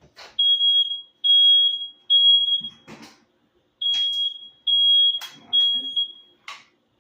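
Smoke alarm sounding: a loud, high, single-tone beep in groups of three with a pause of about a second between groups, the standard fire-alarm pattern. It has been set off before any food is cooking, by an alarm that is called sensitive. Short knocks and clatter come between some of the beeps.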